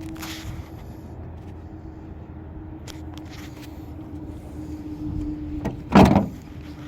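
A steady low hum, with a short click and then a single loud thump about six seconds in.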